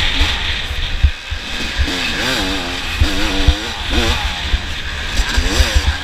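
Off-road motorcycle engines revving up and down over and over, with irregular low thumps underneath.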